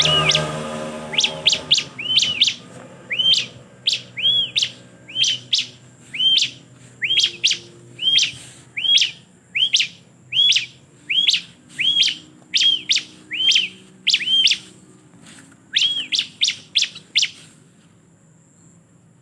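Ciblek (bar-winged prinia) calling: a long series of sharp, arching chirps, each with a click on top, repeated about one or two a second. It stops about seventeen seconds in.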